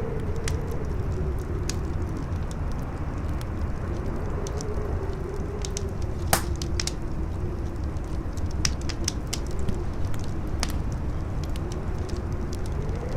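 Crackling fire with scattered sharp pops, one louder crack about halfway through, over a low rumbling wind whose howl wavers slowly up and down in pitch.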